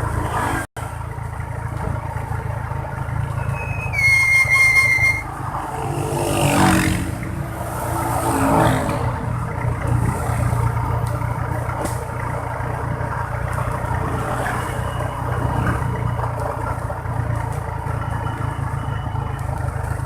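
Motorbike engine running steadily on the road, with traffic noise around it. About four seconds in a vehicle horn sounds once for about a second, and a little later two louder swells of passing traffic follow.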